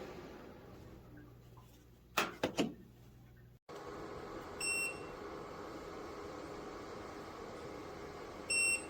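Two short electronic beeps from a portable electric space heater's control panel, about four seconds apart, over the steady hiss of the heater's fan. A quick run of three clicks comes before the beeps.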